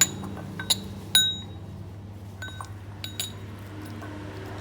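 A utensil clinking against a ceramic or glass bowl: about seven light, ringing strikes, several in the first second and a half and another group a little after the middle, over a faint steady hum.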